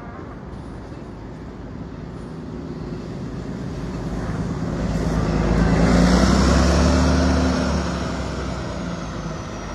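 A road vehicle drives past, its engine and tyre noise growing to loudest about six seconds in and then fading away.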